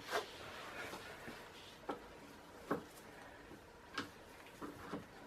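Scattered light clicks and taps from handling tools and car parts, about six short ticks spaced irregularly.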